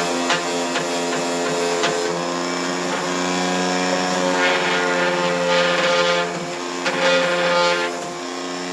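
Electric power tool running steadily with a pitched hum, its pitch sagging slightly at times, and brighter hissing spells as it works into wood.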